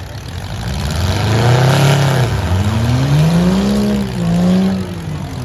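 Demolition derby car's engine revving hard three times, the pitch climbing and dropping with each rev, then falling back to a lower run near the end.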